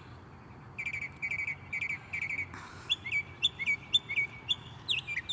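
Songbirds calling in the open: about a second in, a quick run of short chirps in tight clusters of three or four, then from about three seconds a steady string of higher chirps, each dropping in pitch, several a second.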